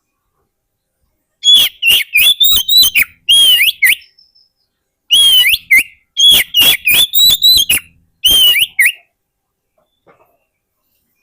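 Oriental magpie-robin (kacer) singing: two bursts of quick whistled notes sliding up and down, with sharp clicky notes between them, each burst a few seconds long with a short pause in between.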